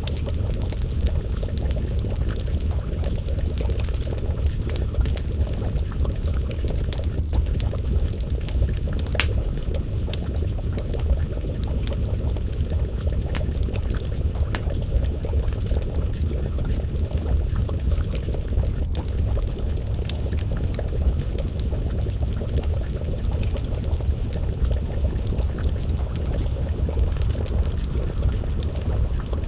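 Wood fire crackling with scattered sharp pops over a steady low rumble, and a pot of stew bubbling as it simmers over the flames.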